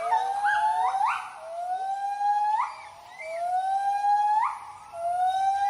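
White-handed gibbons giving their territorial hooting call: a series of rising whoops, each a slow upward glide that ends in a quick upswing, about one every two seconds.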